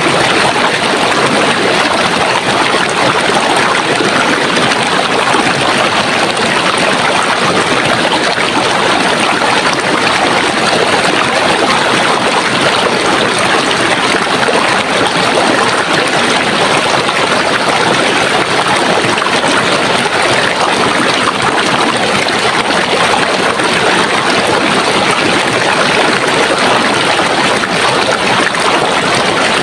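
Running water of a stream or brook, a steady unbroken rushing and splashing.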